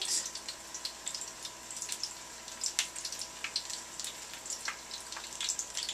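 Breaded, bacon-wrapped chicken frying in a skillet of hot grease: irregular crackles and pops over a faint steady hiss, with a thin steady hum in the background.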